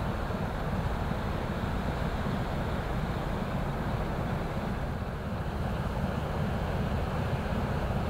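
Steady low rumble of a passing inland motor ship's diesel engine, mixed with wind noise on the microphone.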